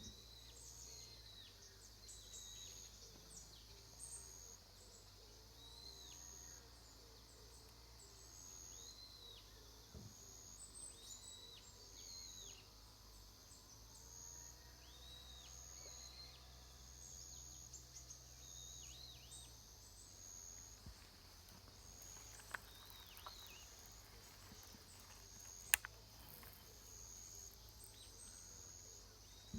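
Faint outdoor ambience: birds giving short repeated arched chirps over a steady high pulsing insect trill, with a low rumble underneath. A couple of sharp clicks in the second half, the louder one near the end.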